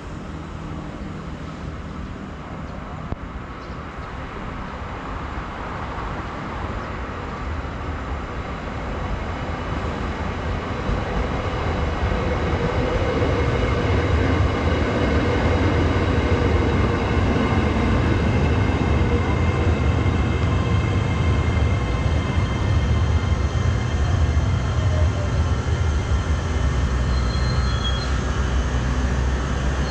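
Red-and-white electric multiple-unit train pulling into the station: a rumble of the train on the rails that grows over the first dozen seconds and then holds steady and low. A few faint steady high tones run over it.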